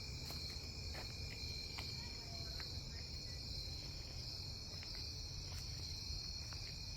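Chorus of night-singing insects, crickets among them: a continuous high-pitched trill that goes on without pausing, with a fainter steady tone beneath it.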